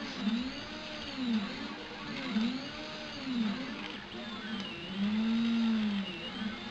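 Stepper motors of a Prusa i3-type 3D printer whining as the print head moves. The pitch rises and falls in smooth sweeps about once a second as the axes speed up and slow down, then settles into a longer, louder steady tone about five seconds in.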